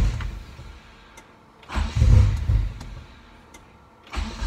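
Mitsubishi 4G63 turbo four-cylinder being cranked over in short surges about a second long, a couple of seconds apart, trying to fire but not yet catching: the first start after a new crankshaft and bearings.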